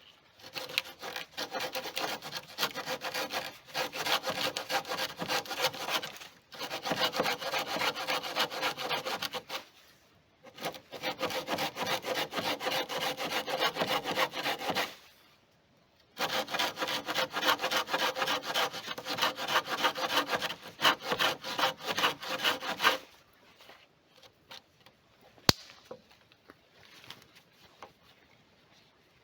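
A saw cutting through wood in four long bouts of rapid strokes with short pauses between them. Near the end the sawing stops, leaving a few light knocks and one sharp click.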